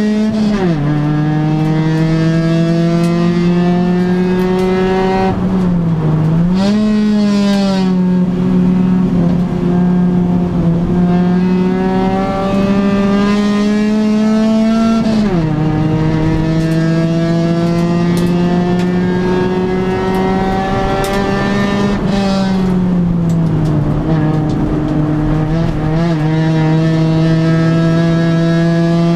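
1997 Honda Civic 1.5's four-cylinder engine under racing load, heard from inside the cabin. The revs climb steadily, drop sharply at upshifts about half a second and fifteen seconds in, dip and pick back up around six seconds, and fall more gradually around twenty-three seconds.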